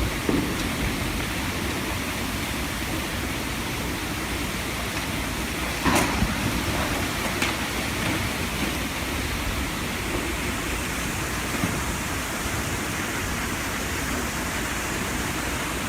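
Steady rushing of water, with one short sharp knock about six seconds in.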